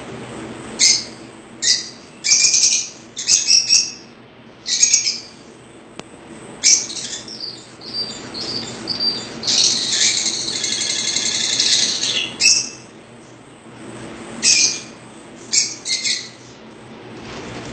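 Small caged birds chirping: short high calls every second or so, with a longer twittering phrase lasting about two and a half seconds around the middle.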